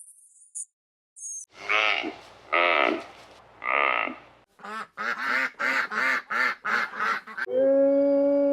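A string of different wild animal calls, spliced with abrupt cuts. High, thin chirps come first. Then three loud, wavering calls, a fast run of about nine short calls, and from about three-quarters of the way in one long steady call.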